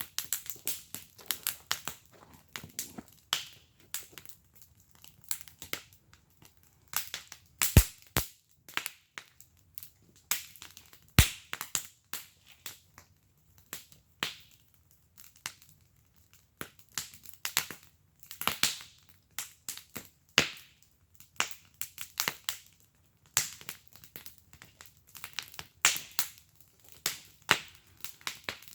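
Wood fire burning in a fire pit, crackling with irregular sharp pops and snaps, a few much louder cracks among them.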